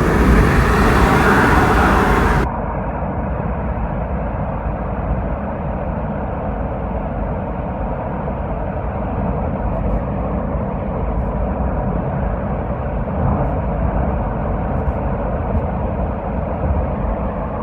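Steady motor-vehicle road noise, a low rumble. For the first two and a half seconds a louder hiss lies over it and cuts off suddenly.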